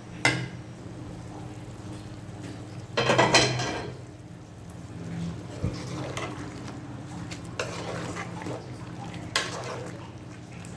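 Metal pot and lid clinking and clattering: a sharp clink near the start, a longer clatter about three seconds in, then a few lighter knocks, over a steady low hum.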